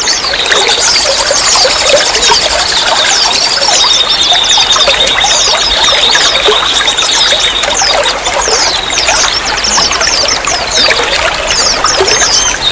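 Running water trickling and splashing steadily, with a thin, high steady tone held for several seconds at a time that breaks off now and then.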